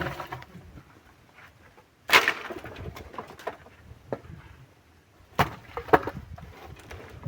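Pieces of firewood knocked together and dropped onto a pile: a few sharp wooden knocks, the first about two seconds in and two more close together about five and six seconds in, with lighter clicks between.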